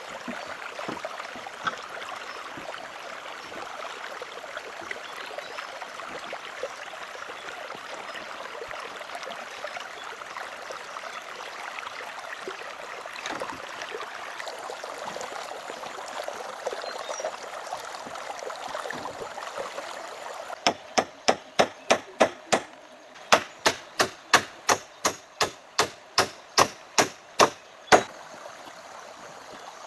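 Steady rush of running stream water, then, about two-thirds of the way in, a quick run of about twenty sharp strikes of a tool on wood, roughly three a second, with a short break partway through.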